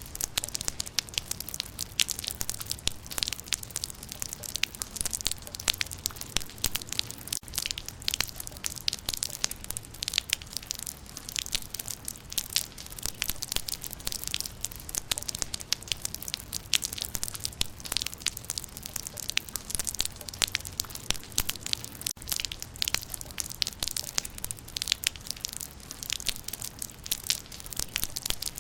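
Rain falling on leaves: a dense, irregular patter of raindrop ticks, brightest in the high range, over a steady hiss.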